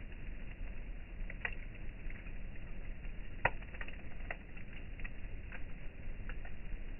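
Campfire crackling: irregular sharp pops over a steady low background noise, with one louder pop about halfway through.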